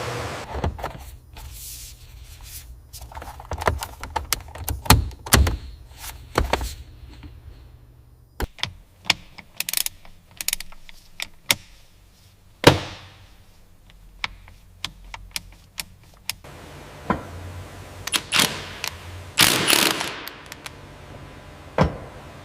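An irregular run of clicks, knocks and thunks, with a few short hissing bursts mixed in.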